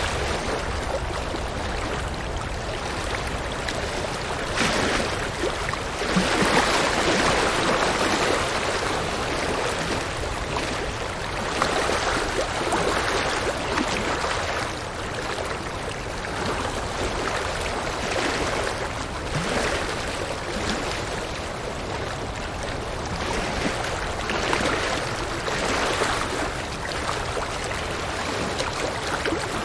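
River water rushing and burbling over rocks: a continuous wash that swells and eases every few seconds.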